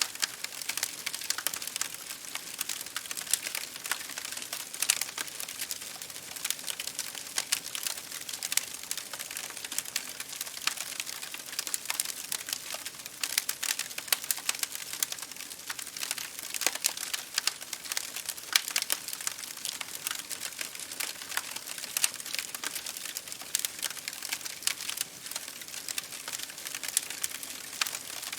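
Campfire burning with a steady crackle of many small snaps and pops over a soft hiss.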